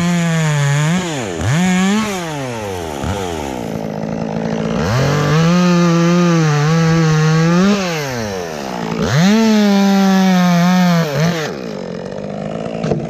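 Chainsaw cutting maple wood, run at full throttle in long bursts that drop back to idle between them, with a short rev about two seconds in; it settles to idle near the end.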